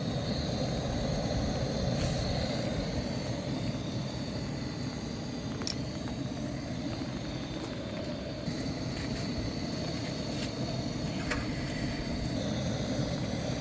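Steady low rushing of a valley stream, with a few faint clicks.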